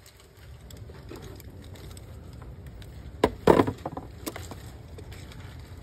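A few sharp knocks and clacks in quick succession a little over three seconds in, and one more about a second later, over a low steady hum.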